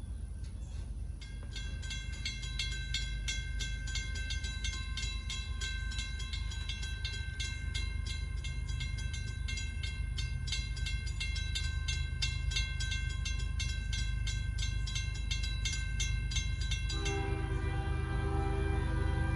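A railroad grade-crossing bell ringing rapidly and evenly over a steady low rumble; near the end a locomotive's multi-chime air horn starts sounding a chord.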